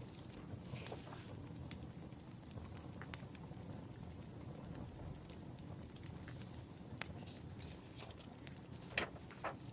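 Wood fire crackling: sharp, irregular pops and snaps over a low steady rumble, with a couple of louder pops near the end.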